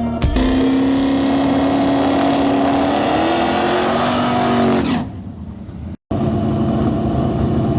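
A 385 cubic inch Gen II LT1 small-block V8 car engine running hard under load, its pitch climbing slightly and then easing off about five seconds in. After a brief cut the engine is heard again at a steadier pitch.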